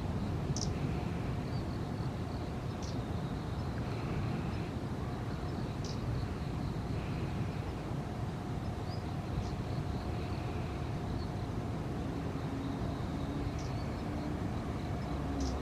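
Steady low outdoor rumble, like distant traffic or wind, with short, thin, high bird call notes every few seconds.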